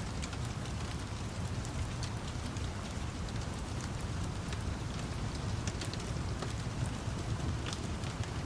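Steady rain with a low rumble beneath it, and the scattered sharp pops and crackles of a wood fire throughout.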